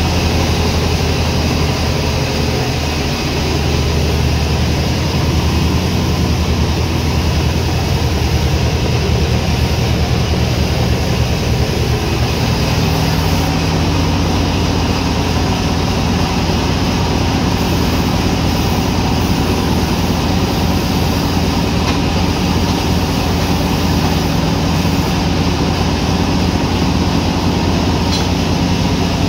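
Sawmill machinery running with a steady, loud, low drone. The pitch of the drone shifts slightly a few times.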